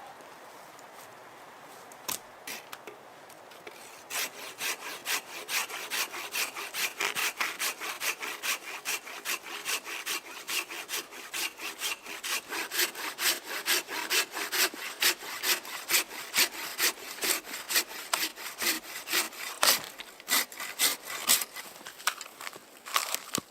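Hand saw cutting through wood in quick, regular back-and-forth strokes, starting about four seconds in after a few single knocks.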